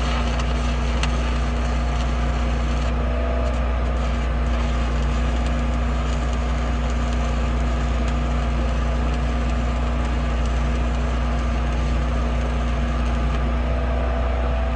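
Stick-welding arc from a 7018 electrode, a steady dense crackle and sizzle over the constant low hum of the welding machine, burning without a break.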